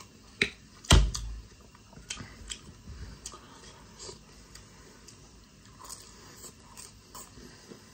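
Eating a deep-fried chicken sha phaley close to the microphone: small chewing clicks and crunches. A sharp click about half a second in and a loud knock with a low thud a moment later.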